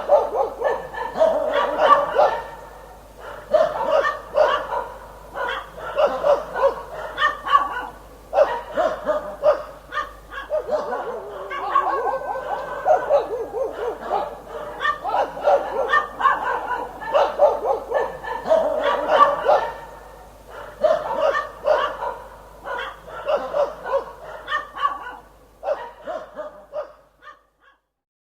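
Dog barking in rapid runs of barks with brief pauses between them, stopping near the end.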